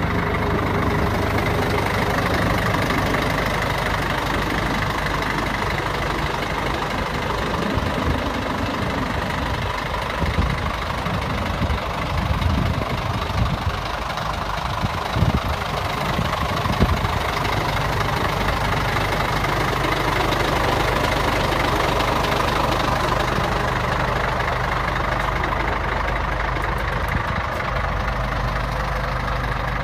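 Scania 114 truck's diesel engine idling steadily, with a stretch of uneven low thuds in the middle.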